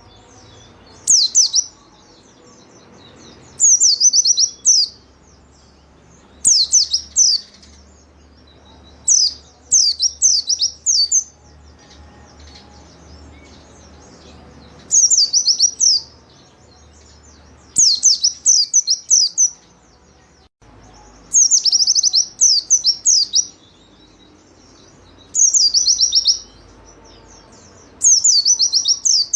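Pleci (white-eye) singing in full voice: short bursts of rapid, high, down-slurred twittering notes, each under a second long and repeated every two to three seconds.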